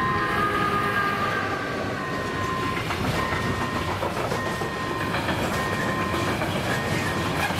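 A freight train passes over a level crossing: an electric locomotive, then loaded wagons, with a steady loud rumble and wheels clattering over the rail joints. Behind it, the crossing's electronic warning bell keeps up its repeated ding.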